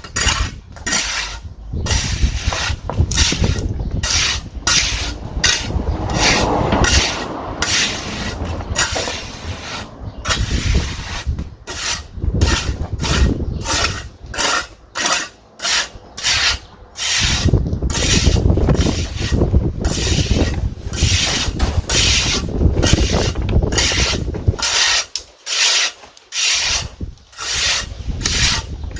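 Rhythmic back-and-forth rasping of a hand tool worked against a hard material, about one and a half strokes a second, steady throughout.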